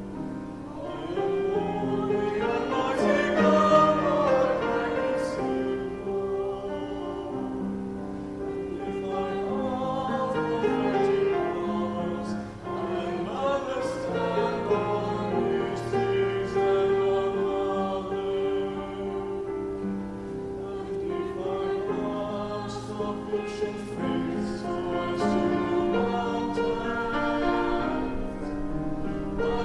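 Church choir singing an anthem in held notes, with sung words heard now and then.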